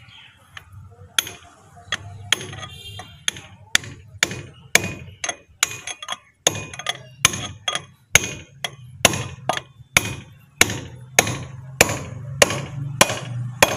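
Steady hammer blows on metal, about two a second, each strike ringing briefly: the small outer wheel bearing being driven into a JCB backhoe loader's front hub.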